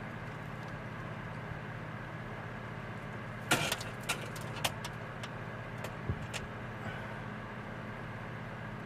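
A handful of sharp metallic clicks and knocks as carburetor parts and hand tools are handled, bunched between about three and a half and six and a half seconds in, the first the loudest. A steady low hum lies underneath throughout.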